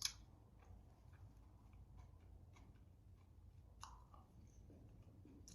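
Faint chewing of a dumpling, with a few scattered small mouth clicks and one slightly louder click about four seconds in.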